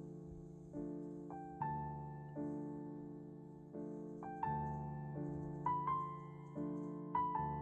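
Soft, slow background piano music: gentle chords struck about every second and a half, each fading away, with a few higher melody notes above them.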